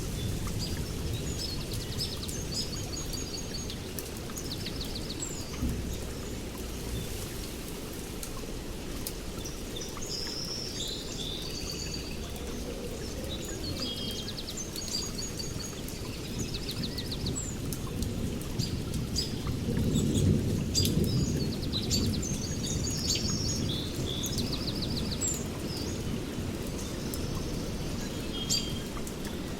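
Small songbirds chirping and trilling over steady rain. A low rumble of distant thunder swells about twenty seconds in.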